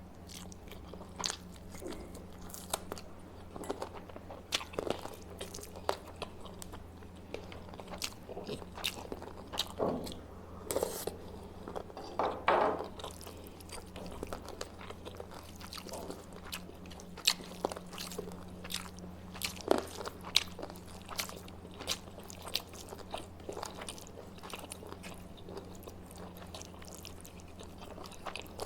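A person chewing and biting food close to the microphone: irregular wet clicks, smacks and soft crunches of mouth sounds, with a steady low hum underneath.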